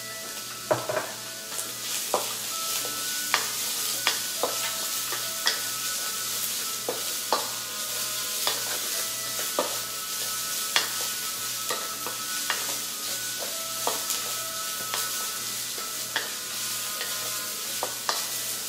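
Diced chicken and carrots sizzling in a wok with onion, ginger and garlic, while a spatula stirs them, clinking and scraping against the wok every half second to a second with short metallic rings.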